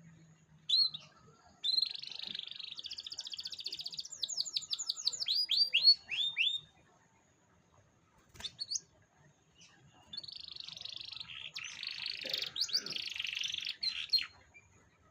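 Domestic canary singing two long song phrases of rapid trills and runs of quick downward-sweeping notes, with a pause of about three seconds between them.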